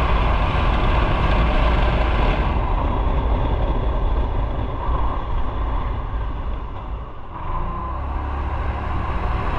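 Motorcycle under way, with engine and wind noise on the onboard microphone and a heavy low rumble. It eases off to a low point about seven seconds in, then picks up again.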